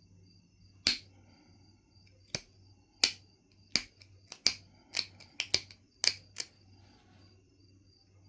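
Knife River flint being knapped: about eleven sharp stone clicks, irregularly spaced, as flakes are taken off the piece.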